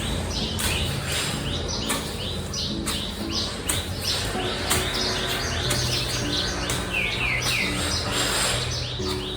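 Small birds chirping busily, with many short falling chirps several a second, over soft background music with held low notes.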